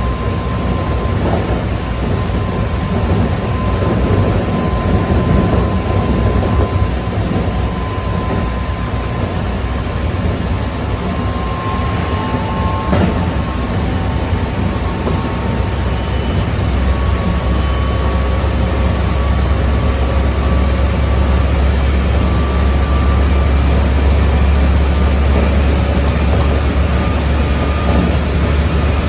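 Keikyu 600 series train's Mitsubishi GTO inverter and traction motors whining, heard inside the car over steady rail running noise. Several thin whine tones slowly rise in pitch, and a deep rumble grows heavier about halfway through.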